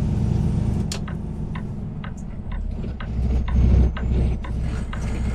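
Heavy semi-truck's diesel engine running with a steady low drone, heard inside the cab, over a regular ticking of about three clicks a second that fits the truck's turn-signal flasher.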